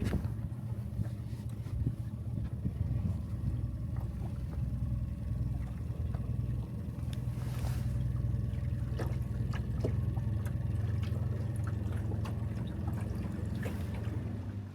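Skiff's outboard motor running steadily underway, a low even engine hum; it drops in level right at the end.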